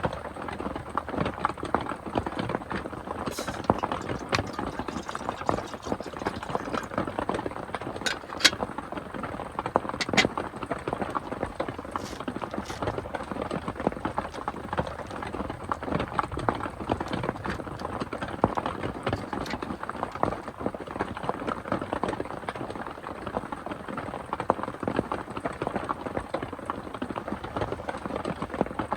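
Heavy rain pattering steadily on a roof: a dense, even patter of drops, with a few sharper ticks in the first half.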